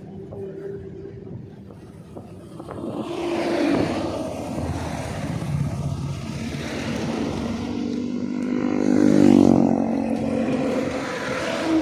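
Road traffic passing on a highway. One vehicle swells past about three and a half seconds in, and a louder one with a clear engine hum goes by about nine seconds in.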